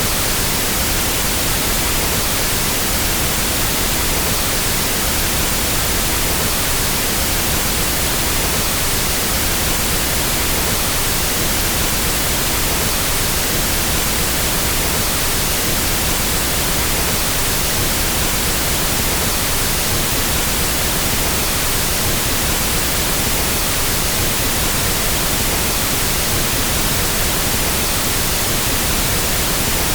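Pink noise test signal: a steady, unchanging hiss spread across all pitches, used for equalizing sound systems.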